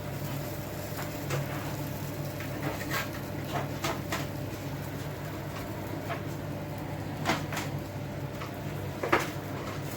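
Scattered light clicks and knocks from chicken wings being handled and laid on an electric grill, over a steady low hum.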